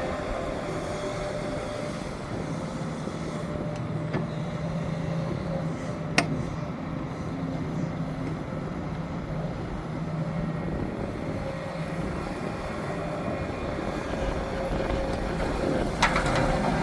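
Hidromek 410LC excavator's diesel engine running steadily under working load. A single sharp bang comes about six seconds in, and a short clatter near the end.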